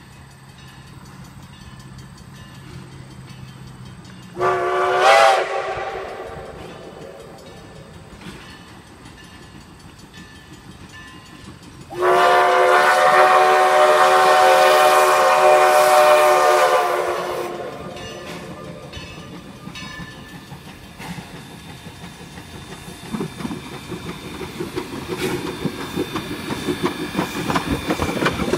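Huckleberry Railroad locomotive 152's whistle sounds a short blast about four seconds in, then a long blast of about five seconds, several tones at once. After that the train's rhythmic clatter builds, growing louder toward the end.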